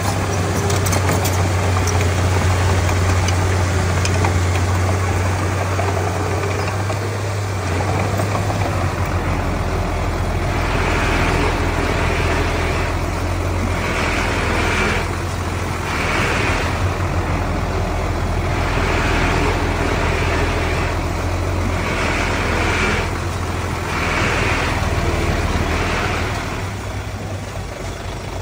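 Heavy diesel engine of earthmoving machinery running steadily. About eight seconds in the low drone changes. From about ten seconds a higher, rasping noise rises and falls roughly every second and a half.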